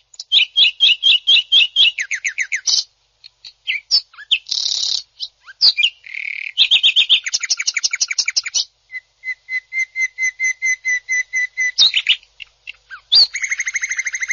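A cucak ijo (greater green leafbird) singing harsh, rapid bursts of repeated notes and chattering trills, several phrases of one to three seconds separated by short pauses. This is the aggressive 'tembakan kasar' song used as a masteran recording to rouse other cucak ijo.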